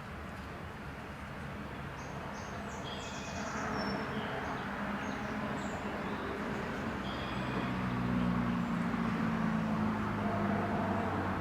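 Birds chirping in short, scattered calls over a steady low drone that grows louder about eight seconds in.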